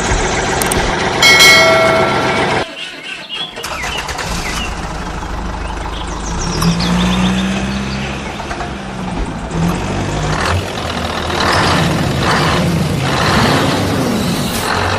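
Vehicle engines running, with a short pitched horn-like blast about a second in and an abrupt cut shortly after, then engine sound with some rising and falling pitch.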